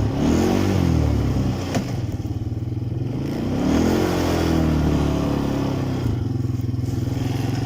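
Quad bike engine revving up and falling back twice, with the wheels spinning in snow. A single sharp click about two seconds in.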